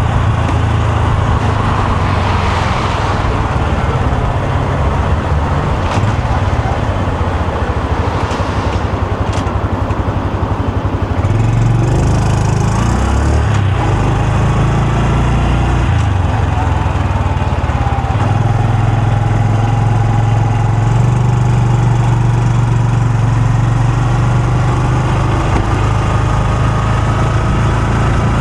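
Honda Super Cub C125's air-cooled single-cylinder four-stroke engine and exhaust running steadily. The engine note shifts about eleven to thirteen seconds in, then holds steady from about eighteen seconds in.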